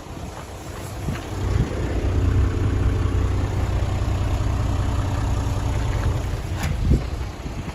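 Toyota Coaster's 1HD-FTE straight-six turbodiesel running steadily, growing louder about a second and a half in and dropping away near the end, with a sharp knock just before it fades.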